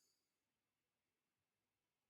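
Near silence: a pause in the recording with no audible sound.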